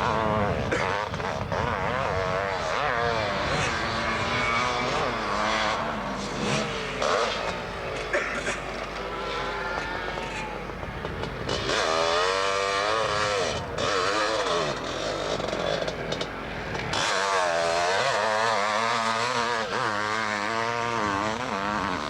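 Motocross motorcycle engines revving, the engine note rising and falling quickly and over and over as the bikes ride the track. A bike comes in louder about halfway through and again near the end.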